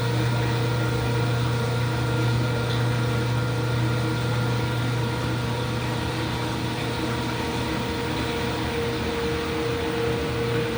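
IPSO washing machine running with a steady mechanical hum.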